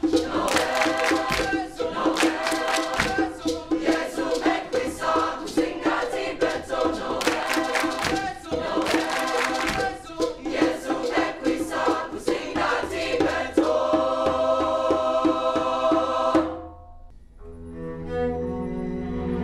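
Student choir singing with percussion beating out the rhythm, stopping about three-quarters of the way through; near the end a student string ensemble starts playing softly.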